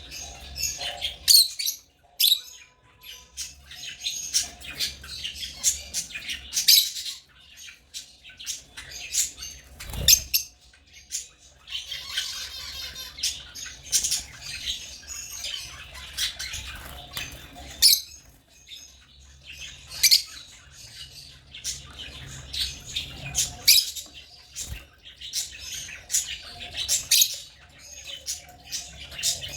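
African lovebirds chirping and squawking in quick, overlapping bursts, with one sharp knock about a third of the way in.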